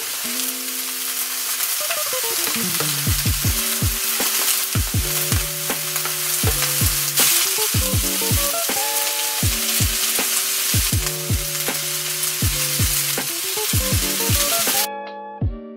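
Vegetable fried rice and broccoli sizzling in a hot frying pan as it is turned with a spatula, over background music with a steady deep bass beat. The sizzle cuts off suddenly near the end, leaving only the music.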